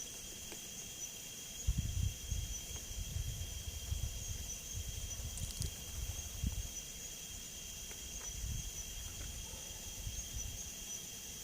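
Steady high chirring of night insects, with faint low rumbling bursts through the middle.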